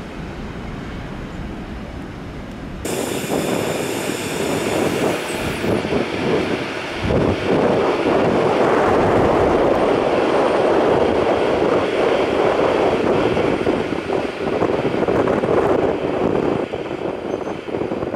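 A low rumble for about three seconds, then a Class 390 Pendolino electric train running along the platform. Its wheels on the rails make a loud, steady rush that builds over the next few seconds.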